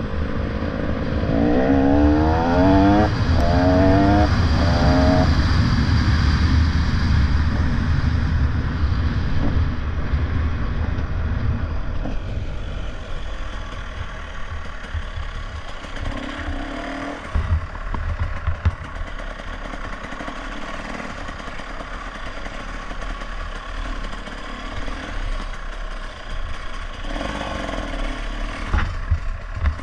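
Motorcycle engine revving up in three or four quick rising sweeps in the first few seconds as the bike pulls away, then running more quietly with wind and rattling, and a few knocks later on.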